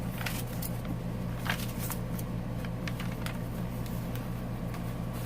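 Scattered soft rustles and small clicks of paper and cardstock pages and tags being handled in a handmade journal, over a steady low hum.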